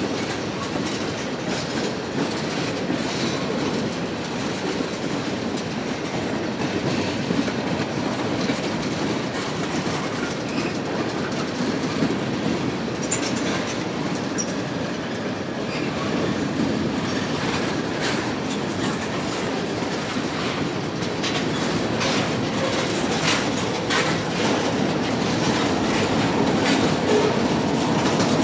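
Cars of a long mixed freight train rolling past, a steady rumble of steel wheels on rail with repeated clicks as the wheels cross rail joints, more frequent in the second half and a little louder near the end.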